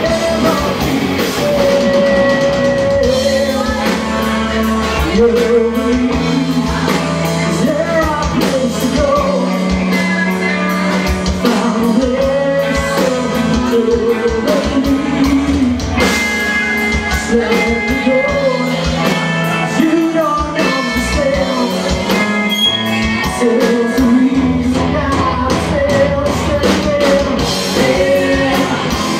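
Live rock band playing with a singer, heard loud and roomy: electric guitars, bass and drums under a sung vocal line.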